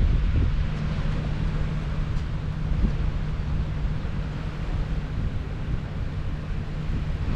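Steady low engine hum of a large ship, with wind rumbling on the microphone.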